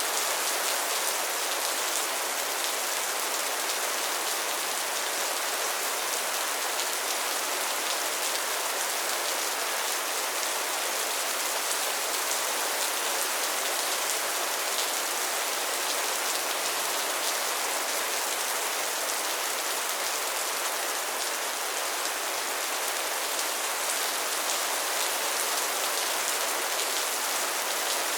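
Steady rain falling and pattering on surfaces, an even hiss with fine scattered drop ticks.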